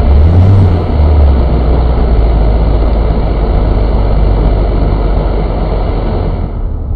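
A MINI's engine and tyre and road noise heard from inside the cabin while driving, with the engine note dropping about a second in.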